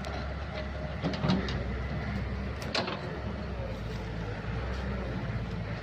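Kobelco excavator's diesel engine running steadily while digging. A few sharp metallic clanks come about a second in and again near the middle.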